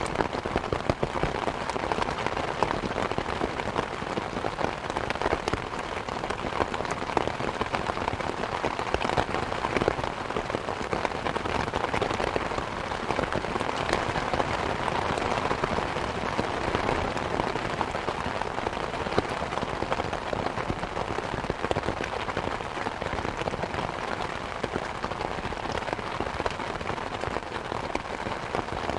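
Steady rain falling, mixed with a wood fire crackling in a fireplace, many small pops and snaps scattered through it.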